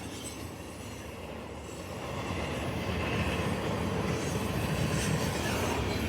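A CSX freight train's tank cars rolling past, a steady noise of steel wheels on the rails that grows somewhat louder about two seconds in.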